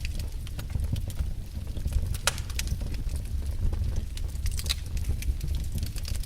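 Wood fire burning in a fireplace: a low steady rumble with irregular sharp crackles and pops, one louder pop a little over two seconds in.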